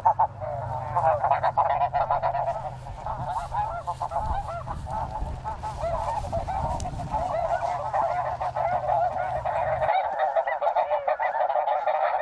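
A large flock of snow geese calling, a continuous din of many overlapping honks. A low steady rumble underneath cuts off about ten seconds in.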